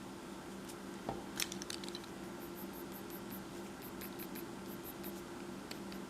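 Faint scratching and light taps of drawing on paper, over a steady low hum, with a soft knock and a short run of small clicks about a second and a half in.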